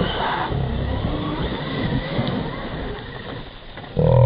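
Traxxas Rustler VXL RC trucks driving, their brushless electric motors running with faint whines rising and falling over a steady rough noise that eases off near the end.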